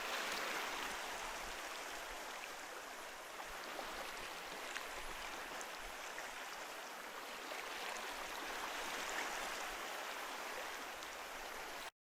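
Ocean surf washing on a shore: a steady hiss of water that swells twice, with faint crackles of fizzing foam, then cuts off suddenly near the end.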